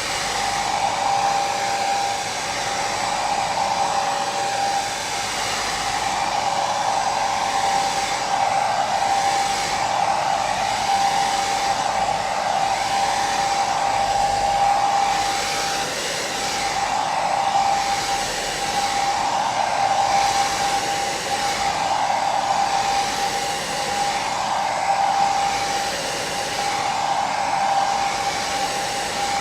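Hair dryer running continuously: a steady whine over the hiss of its airflow, swelling gently every couple of seconds.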